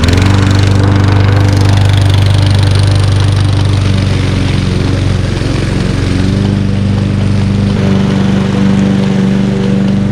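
Small petrol engine of the lawn-mower kind running steadily just after starting up; its note shifts slightly about six seconds in.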